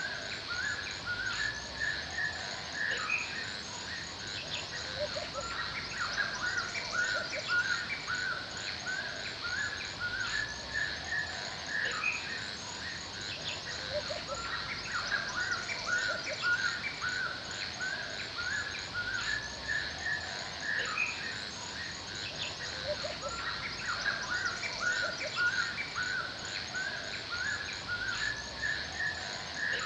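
Forest ambience: a dense chorus of many birds calling and chirping together, with rapid high chirps repeating throughout and a steady high hiss behind them.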